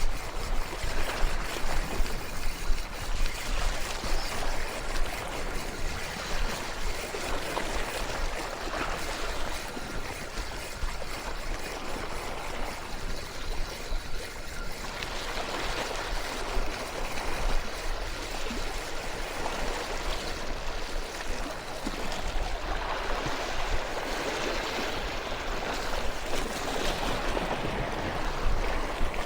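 Sea waves washing and swirling over shore rocks in a steady, surging wash that swells and ebbs every few seconds.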